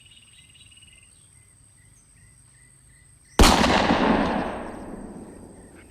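A single sudden loud bang about three and a half seconds in, trailing off slowly over about two seconds, over a quiet forest background with a faint high insect-like trill.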